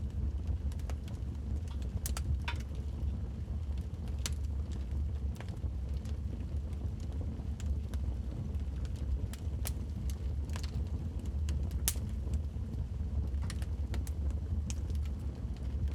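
Wood logs burning in a fireplace: a steady low rumble of the fire with irregular sharp crackles and pops, a dozen or so scattered through.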